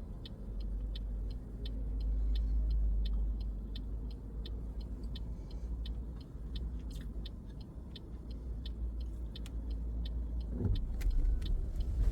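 Car indicator relay ticking steadily, about three ticks a second, over the low rumble of the car heard from inside the cabin.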